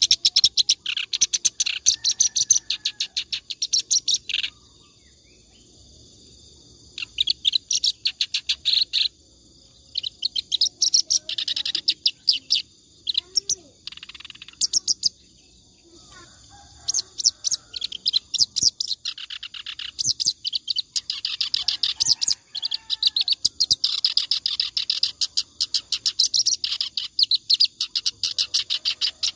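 Kerak basi reed warbler singing continuously: bouts of fast, chattering repeated notes, broken by short pauses about five and fifteen seconds in.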